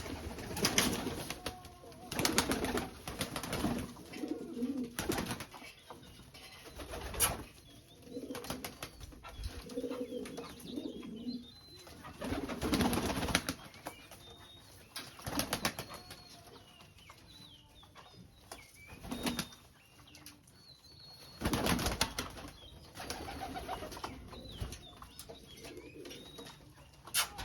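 English Pouter pigeons cooing in low, repeated phrases, broken by about a dozen short bursts of wing flapping.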